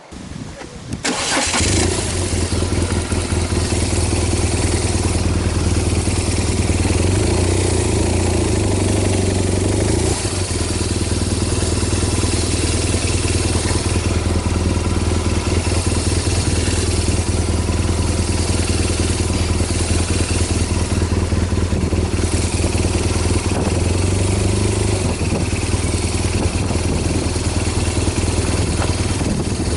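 BMW R1200GS motorcycle's flat-twin boxer engine starting about a second in, then running steadily.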